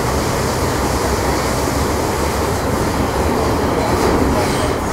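Metro Cammell M-Train electric multiple unit with GEC GTO chopper traction running at speed, heard from inside the car: steady rumble of wheels on track with a low hum from the traction equipment. Faint high tones come in near the end.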